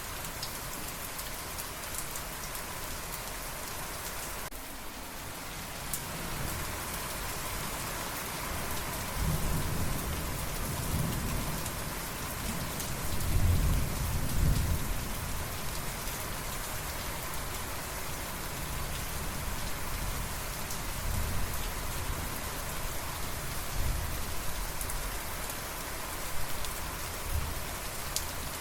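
Steady rain falling, with a long low roll of thunder that builds from about a third of the way in and peaks near the middle, then fades into smaller rumbles.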